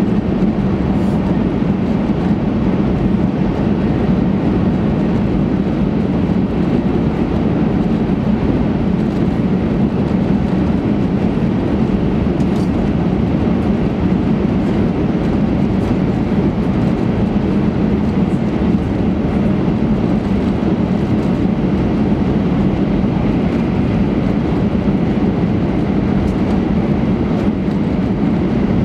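Steady rumble of an 800 series Shinkansen heard inside the passenger car while the train runs between stations.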